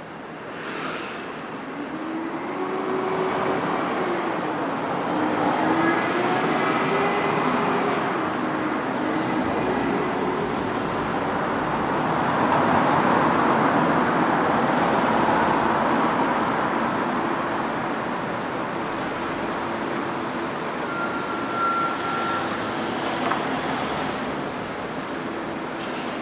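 Road traffic: a continuous wash of tyre and engine noise from passing cars, swelling as vehicles go by, loudest about a quarter of the way in and again around the middle.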